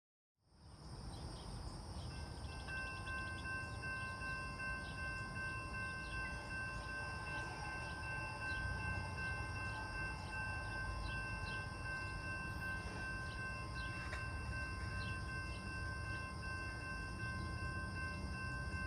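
Steady outdoor background noise fading in about half a second in: a low rumble, with faint, constant high-pitched tones and hiss above it and light ticks at a regular pace.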